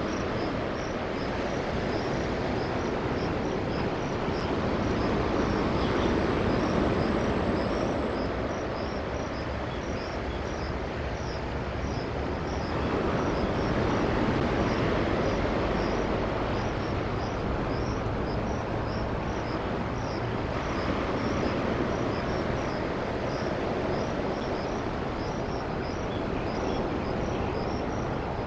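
A train running along the coastal viaduct, a steady rumble that swells and eases twice. Over it an insect chirps high and evenly, about twice a second.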